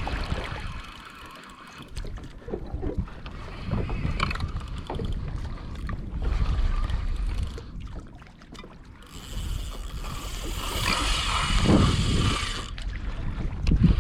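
Wind buffeting the microphone and water noise around a fishing kayak, with scattered small knocks and clicks from handling the rod and reel during a fight with a hooked fish. About nine seconds in, a brighter hiss starts and lasts around three and a half seconds.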